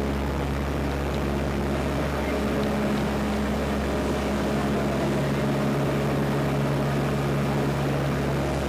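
Propeller airplane's engines running with a steady drone, heard from inside the cabin.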